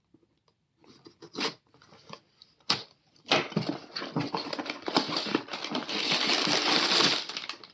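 Lego set box being opened by hand: a few small clicks and a sharp snap, then about four seconds of dense rustling and crinkling as the plastic part bags are handled.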